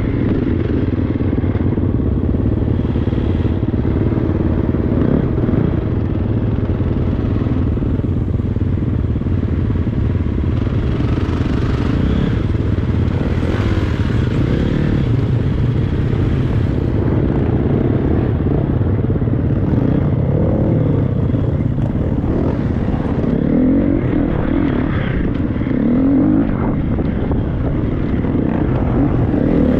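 Triumph 250 motocross bike engine under riding, revs rising and falling continuously as it is ridden off-road.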